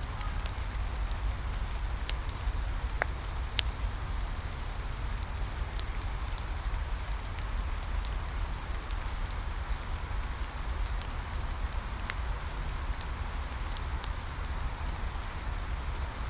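Steady rain falling with a low rumble underneath, and a bonfire crackling with scattered sharp pops.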